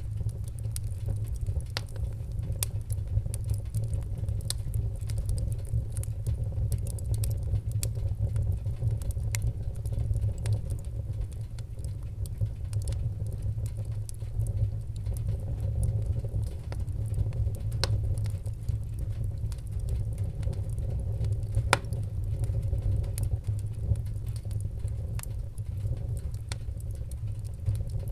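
Wood fire in a fireplace crackling: scattered sharp pops and clicks over a steady low rumble.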